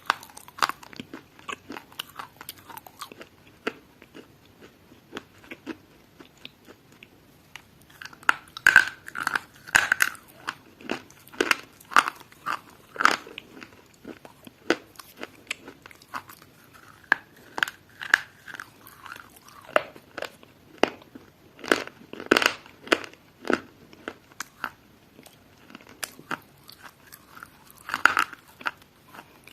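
Something crunchy being chewed: irregular sharp crunches, coming in quick runs with quieter stretches between.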